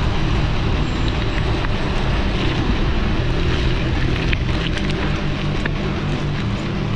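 Wind buffeting a camera microphone with steady rumble during a mountain bike ride, with a few sharp clicks a little past halfway.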